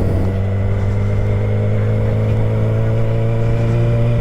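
Yamaha R6 sport bike's inline-four engine running at a steady speed under way, holding one even note.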